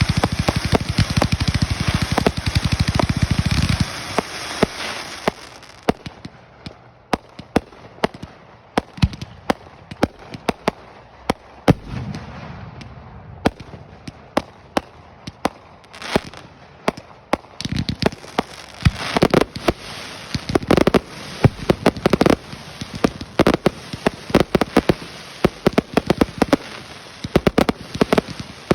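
Fireworks crackling: a dense, rapid volley of sharp pops for about four seconds, then scattered pops that thicken again after about eighteen seconds.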